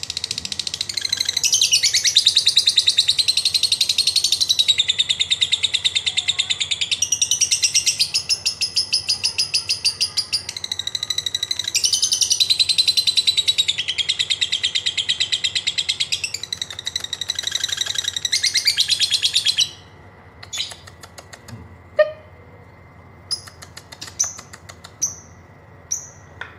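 Lovebird giving a long 'ngekek' chatter: a fast, unbroken run of shrill, rapid-fire notes lasting about eighteen seconds. It stops abruptly, leaving a few short single chirps near the end.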